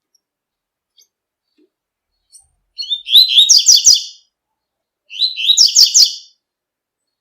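Double-collared seedeater (coleiro) singing its 'tui-tui' song type: two short phrases of quick, high twittering notes, the second about a second after the first.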